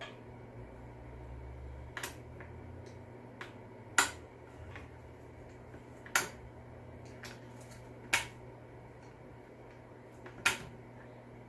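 Sharp metallic clicks, five of them about two seconds apart, from a small flathead screwdriver picking at the piston ring on a leaf blower's piston to pry it loose. A steady low hum runs under them.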